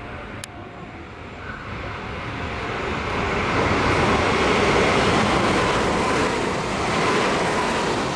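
Meitetsu electric train passing at speed without stopping. Wheel and rail noise swells to a peak about four to five seconds in, with a steady whine over it, then fades as the train goes by.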